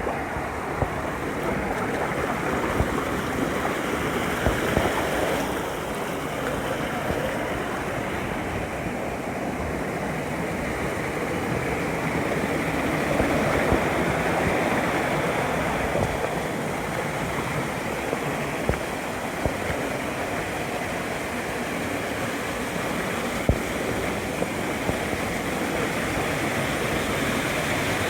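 Mountain stream water rushing and splashing steadily over rocks, with a few brief knocks here and there.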